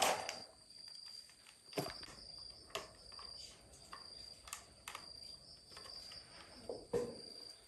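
A steady high insect trill, typical of crickets, runs throughout. Over it come about half a dozen sharp clicks and knocks, the loudest at the start and near the end.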